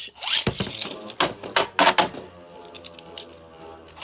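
Beyblades launched into a stadium: a quick launcher rip, then sharp clacking hits as the spinning tops collide several times in the first two seconds, followed by a steadier whirring hum as they spin.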